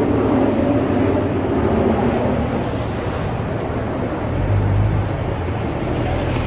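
City street traffic: engines of passing vehicles running, with a deeper, lower engine rumble coming in about four seconds in.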